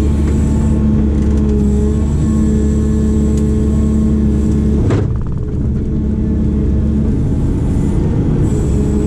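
Heavy construction machine's diesel engine running steadily under load, with a steady hum and low rumble. About five seconds in there is a sudden sharp sound, after which the higher hiss is quieter for a few seconds.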